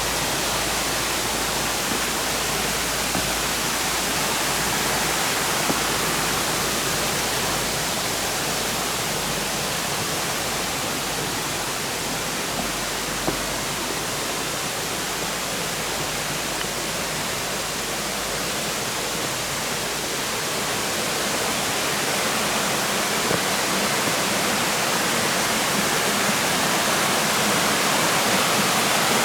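Steady rush of shallow river water cascading over a rocky bed, growing a little louder near the end.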